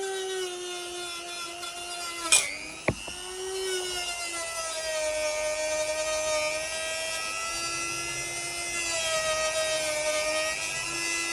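Dremel-type high-speed rotary tool running with a steady whine, its pitch dipping and recovering as the bit bears on the steel of the axe head. There is a brief knock about two and a half seconds in.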